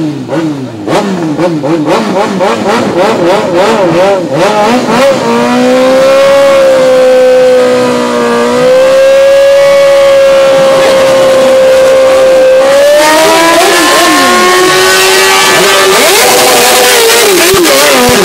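Kawasaki Ninja 900's inline-four engine revved in quick blips, then held at high revs for several seconds and pushed higher about two-thirds of the way through, during a burnout.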